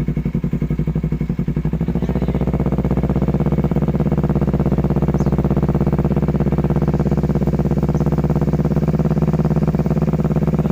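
Kawasaki motorcycle engine running through an aftermarket R9 exhaust with a steady, pulsing exhaust note. About two seconds in, the revs rise slightly and then hold steady.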